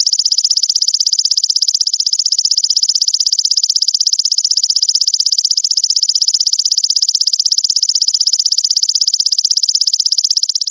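Belalang mas grasshopper stridulating: a continuous, very fast, high-pitched buzzing trill.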